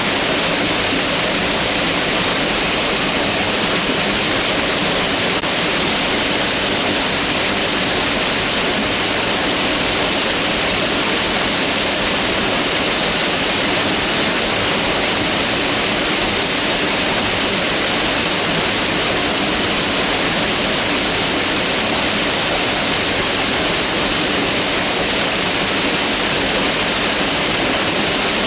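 Mountain river rushing over rocks, a steady, even roar of flowing water.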